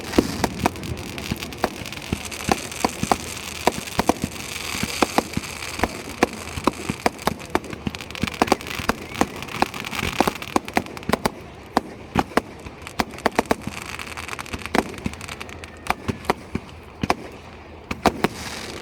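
Fireworks going off in a rapid, continuous run of sharp bangs and crackles over a steady hiss, easing somewhat after the middle.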